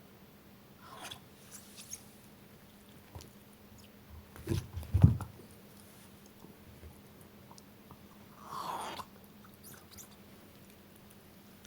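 A Shiba Inu chewing and biting on a ball, with scattered small clicks. A couple of heavy low thumps come about four to five seconds in, and a short rough rasping sound comes near the end.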